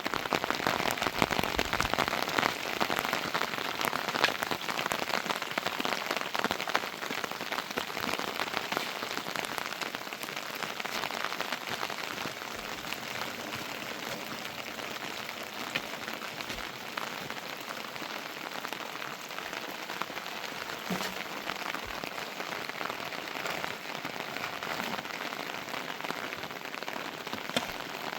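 Heavy rain falling steadily, with many individual drops ticking sharply on a nearby surface; a little heavier in the first few seconds, then even.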